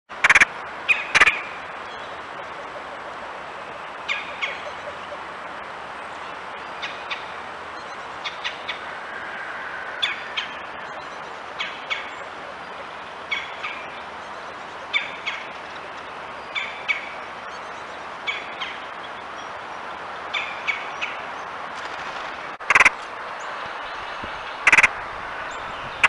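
Short bird calls repeated every second or two over a steady background hiss, with a few louder sharp sounds: two near the start and two near the end.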